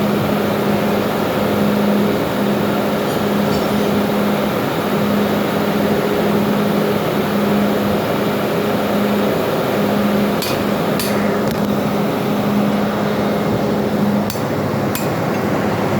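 Loud, steady engine-room machinery noise, with a hum that swells and fades in an even beat. A few sharp metallic clinks of hand tools come near the end.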